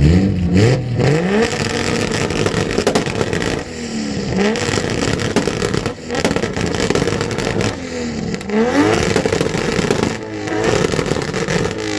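Car engine revved hard again and again for an exhaust contest: the exhaust note climbs and drops four or five times over a steady loud rumble.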